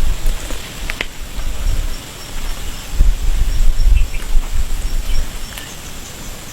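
Outdoor ambience: a low rumble that swells and fades, with a few short bird chirps.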